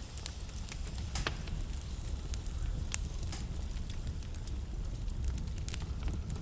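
Wood fire burning in a fireplace: a steady low rumble of the flames with irregular crackles and pops from the burning logs, two sharper pops standing out about a second and three seconds in.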